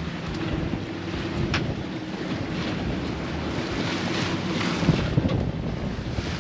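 Wind buffeting the microphone over water rushing and splashing past the hull of a sailboat under sail in a fresh breeze of about 16 knots.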